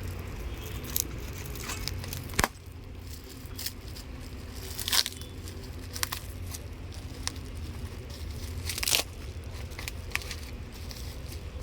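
Parts being handled and unwrapped: crinkling and tearing sounds with a few sharp knocks, the loudest about five and nine seconds in, over a steady low hum.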